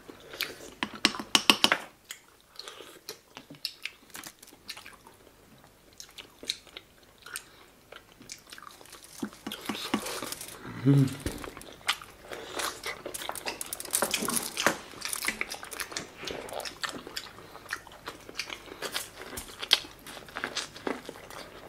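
Close-miked eating of a seafood boil: wet chewing and biting with irregular crunches and clicks, denser in the second half. About halfway through there is a brief low hum, like a satisfied "mm".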